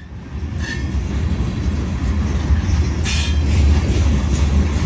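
Freight train of grain hopper cars rolling past, with a heavy steady rumble and rail noise. Brighter high-pitched surges of wheel-on-rail noise come about half a second in and again around three seconds in.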